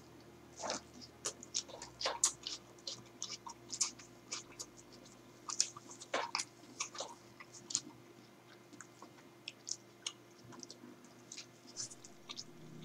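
A person chewing a mouthful of a Burger King Impossible Whopper close to the microphone: a string of soft, irregular mouth clicks and smacks.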